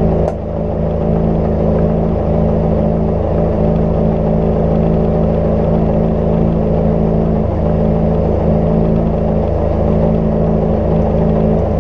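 Cozy Mk IV's pusher engine and propeller droning steadily in flight, one even pitch throughout, with a single brief click about a third of a second in.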